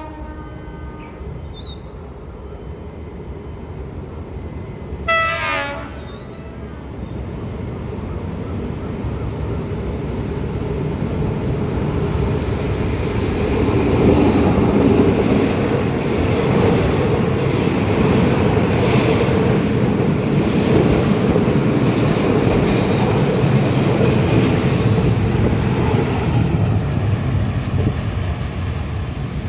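Diesel train sounding its horn once, briefly, about five seconds in, then drawing near and passing. Its rumble builds to a loud, steady run with the clatter of wheels over the rails, easing a little near the end.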